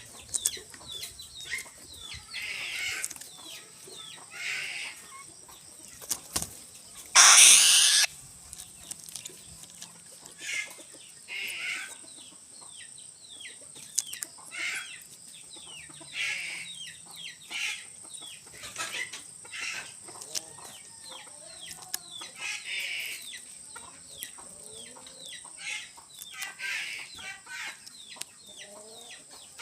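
Chickens clucking on and off, with one loud burst of wing flapping about seven seconds in.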